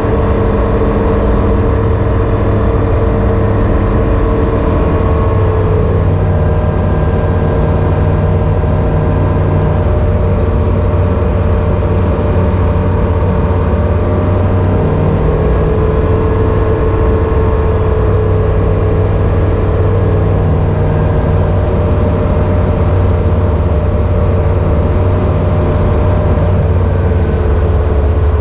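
Evektor EuroStar EV-97 light aircraft's piston engine and propeller running steadily, heard from inside the cockpit, with a slight drop in pitch about five seconds in.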